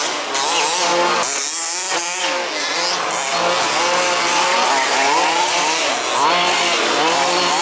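Several 1/5-scale RC off-road buggies with small two-stroke petrol engines, running together, their pitches rising and falling as the throttles open and close.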